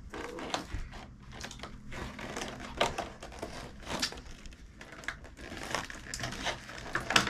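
Toy packaging being handled and pulled at, with irregular crinkling and clicking of plastic and tape.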